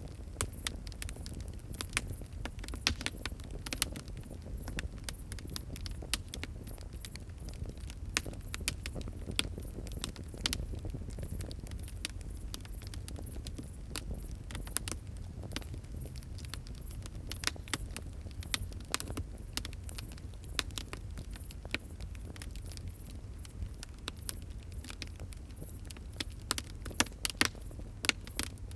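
Wood fire crackling: irregular sharp pops and snaps over a steady low rumble of burning, with a flurry of louder pops near the end.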